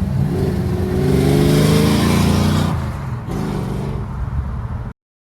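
A car engine revving: its pitch rises for about two seconds, then drops back and runs lower before cutting off suddenly.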